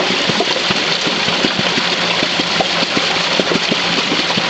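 Homemade water-wheel micro-hydro rig running in a brook: rushing water with a rapid, irregular knocking from the pulley and sprocket drive. The knocking comes from a sprocket whose retaining nut was never tightened and is working loose, so the sprocket slips.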